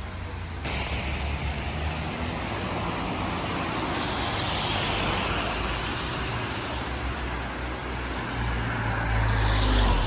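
Road traffic: cars driving past on a street, a steady rush of engines and tyres that swells as one car passes about halfway through and again, louder, as another passes near the end.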